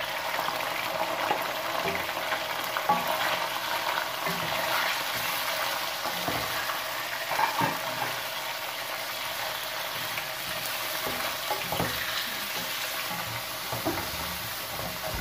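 Boneless chicken pieces sizzling as they fry in hot oil and garlic paste in a metal karahi. A spatula stirs them, knocking and scraping against the pan at irregular moments. The meat is being browned.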